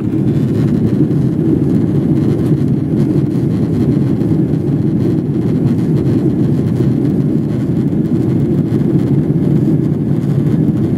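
Steady low rumble of cabin noise inside a Boeing 777-300ER in flight: its GE90 engines and the airflow over the fuselage, even and unbroken.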